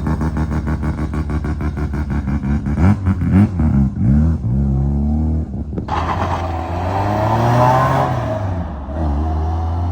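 Car engines and exhausts as cars drive off: a loud, pulsing engine note with a few throttle blips a few seconds in, then about six seconds in another car comes in louder, its engine note rising and falling as it accelerates past.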